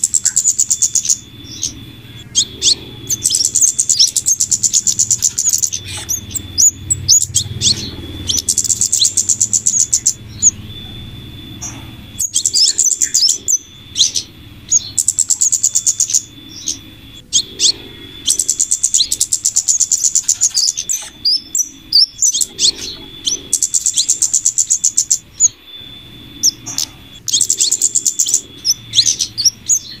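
Bird-lure recording of small-bird calls for catching scarlet-headed flowerpeckers (kemade): repeated bursts of rapid, very high-pitched ticking chatter, each a second or two long, with a steady thin high tone underneath.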